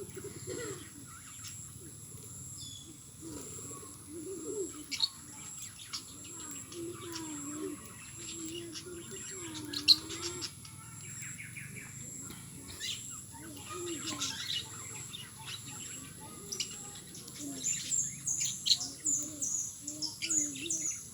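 Pet birds chirping in many short, sharp high calls, with low warbling coos in between; the chirping grows busier near the end.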